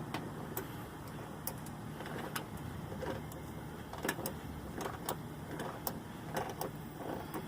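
Hammer striking the bent metal crash pad (bumper reinforcement) of a 2002 Honda Civic to beat it back into shape, a run of sharp, irregular blows about two a second over a low steady hum.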